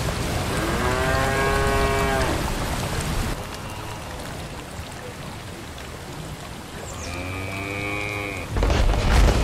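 A cow mooing twice, one long moo about a second in and another near the end, over the hiss of rain that fades after about three seconds. A loud noisy burst comes just before the end.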